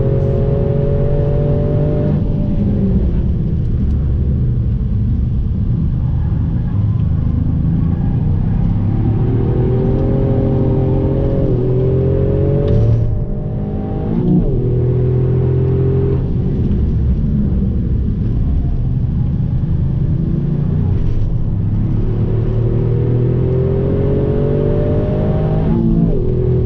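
Toyota Yaris engine heard from inside the cabin, pulling hard on a race track: its note climbs steadily in pitch, then falls sharply about 2, 13 and 26 seconds in, over a constant low road and tyre rumble. The sound dips briefly right after the fall at 13 seconds.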